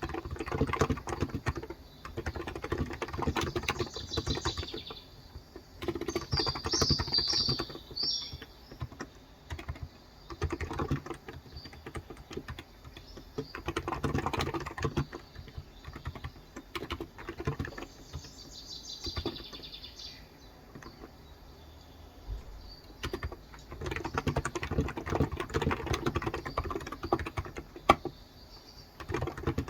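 Fast typing on a Cox Endeavour electro-capacitive tenkeyless keyboard with light 35 g switches: keystrokes come in bursts of a few seconds with short pauses between them. Birds chirp in the background a few times.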